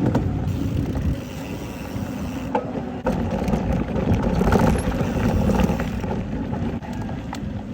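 Low, uneven rumble of wind and rolling road noise from a moving bicycle, with scattered small clicks and rattles.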